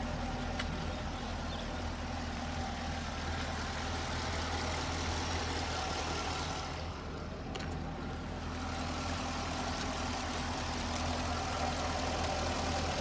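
2008 Chevrolet Corvette's V8 engine idling steadily, its sound briefly duller about halfway through.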